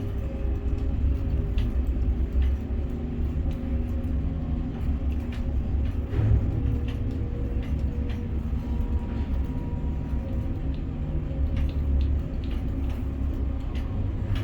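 Container crane machinery running with a steady low rumble and hum, heard from the operator's cab, with scattered faint clicks.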